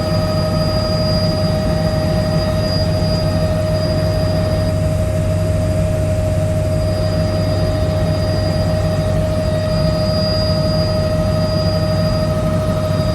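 Helicopter in flight, its rotor and turbine running steadily: a constant low drone with a steady high-pitched whine over it.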